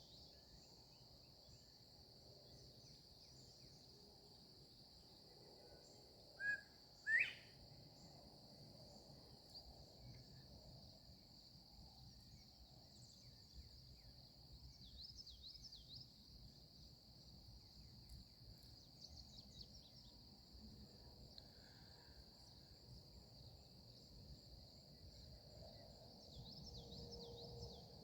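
A northern bobwhite gives one two-note 'bob-white' whistle about six and a half seconds in: a short first note, then a second that sweeps sharply upward. A steady high insect chorus runs underneath.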